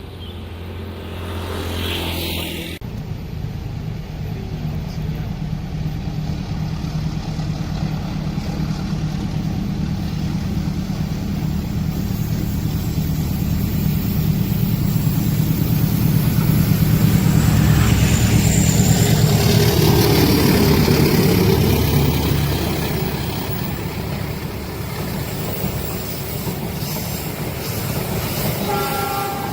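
Diesel locomotive engine drone, growing louder as it approaches and is loudest about two-thirds of the way through as it passes, then easing off; a brief high tone sounds near the end.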